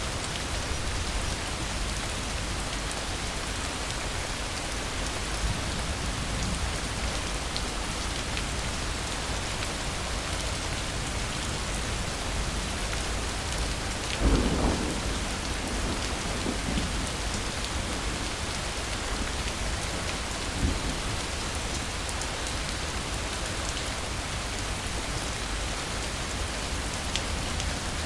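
Steady heavy rain falling, with a roll of thunder about halfway through and fainter rumbles a few seconds later.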